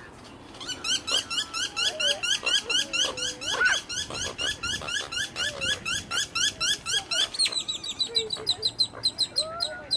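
A bird calling in a fast, regular series of rising chirps, about four a second. Around seven seconds in the chirps turn higher and quicker, and a few fainter lower calls come in beneath them.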